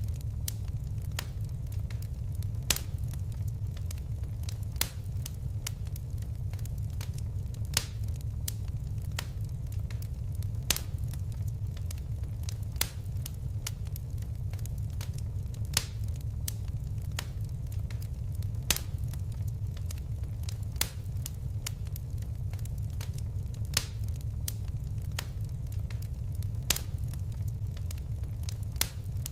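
Fire crackling: a steady low rumble of burning, broken by sharp pops and snaps at irregular intervals, a few of them louder every couple of seconds.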